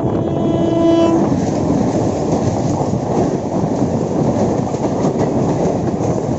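Electric multiple-unit train horn sounding once and cutting off about a second in, followed by a loud, steady rush of rail noise with wheel clatter.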